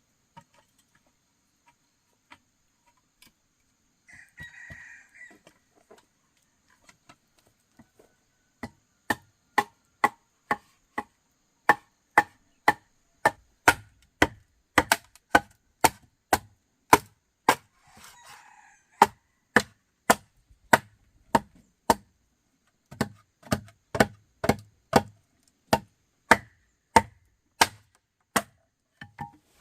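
A steady run of sharp blows on wood, about two a second, from a hammer or chopping tool being used to build the coop, with a short pause late on. A chicken calls briefly twice.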